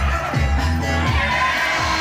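Jaranan ensemble music, with gamelan-type percussion and drums: low drum strokes that fall in pitch come about every half second, under held melodic tones.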